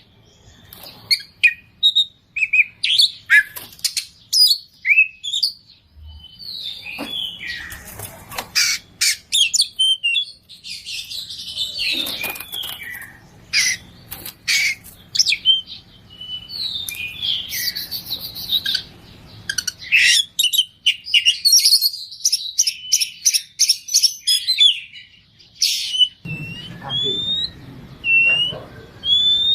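Oriental magpie-robin (kacer) singing a fast, varied song packed with mimicked phrases: rapid chirps, trills and whistles, with a run of rising whistled notes about once a second near the end.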